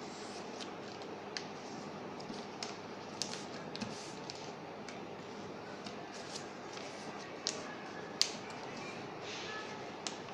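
Paper being handled and folded: scattered crinkles and sharp creasing clicks, one louder snap a little after eight seconds in, over a steady background hiss.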